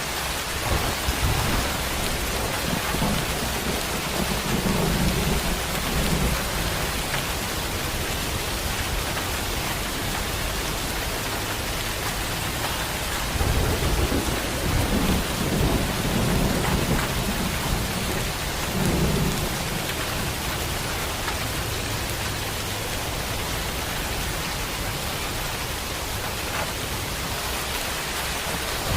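Heavy rain falling steadily, with thunder rumbling low under it: one roll in the first few seconds and a longer one from about halfway through.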